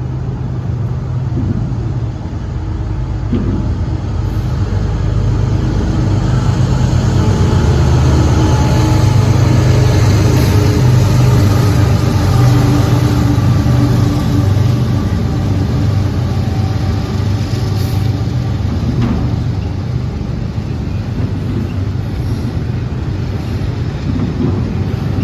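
Diesel freight locomotive engine running as a train passes, a steady low hum with overtones that grows louder over the first several seconds and then holds.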